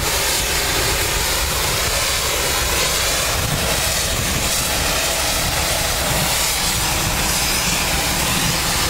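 Pressure washer spraying a wand of water onto a truck trailer: a steady, loud hiss of spray with the washer's running motor underneath.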